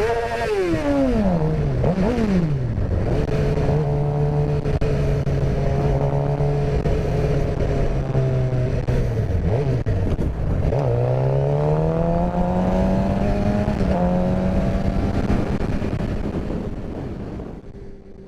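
Motorcycle engine running under way over a steady rumble of wind and road noise. The revs fall sharply in the first few seconds, hold steady, dip briefly past the middle, then climb as it accelerates, and the sound fades out just before the end.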